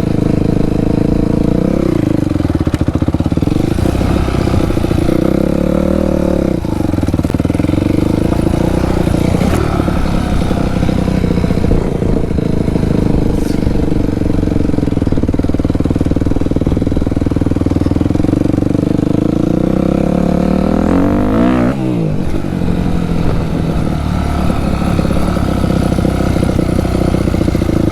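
Dirt bike engine running loudly as it is ridden, holding fairly steady revs, with revs dropping and climbing again about six seconds in and once more near the twenty-second mark.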